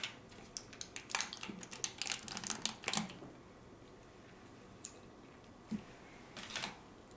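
A quick run of light plastic clicks and taps from a sauce container and sushi packaging being handled, lasting about three seconds, then a few scattered taps.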